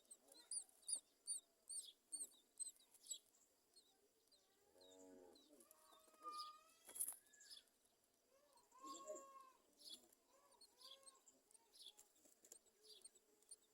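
Myna birds chirping faintly: a quick run of short, high chirps over the first three seconds or so, then a few lower, pitched calls around the middle and scattered chirps to the end.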